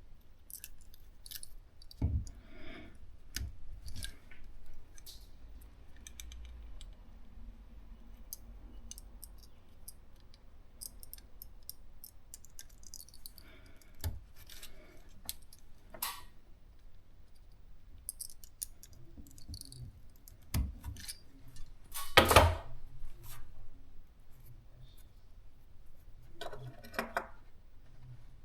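Scattered small clicks, taps and light metallic rattling of hard objects being handled, with gaps between them and one louder clatter about 22 seconds in.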